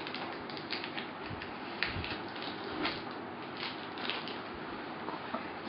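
Hands picking and peeling leftover tape off a cardboard shoebox: scattered crackles and light clicks of tape and cardboard being handled.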